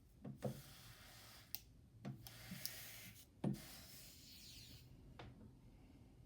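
Steam iron working over a dent in a walnut tabletop: faint hissing and rubbing in two stretches, with a few soft knocks, the loudest about three and a half seconds in. The steam is swelling the crushed wood fibres back out of the dent.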